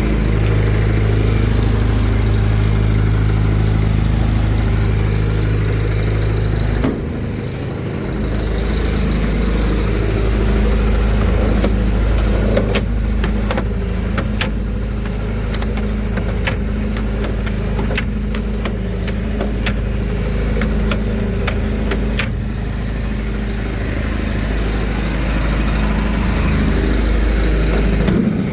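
An engine running steadily with a constant low hum. About seven seconds in its deepest tone drops out for about a second, then it runs on, with scattered light clicks through the middle stretch.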